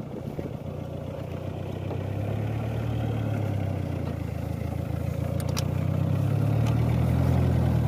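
Mitsubishi Pajero's engine idling, a steady low rumble that grows slowly louder.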